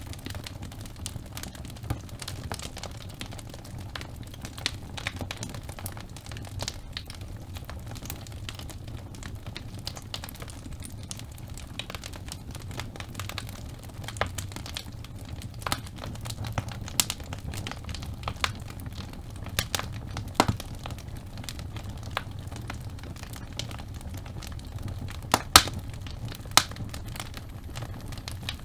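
Wood logs burning in a fireplace: a steady low rumble of flame under continual crackling, with a few louder pops, two of them near the end.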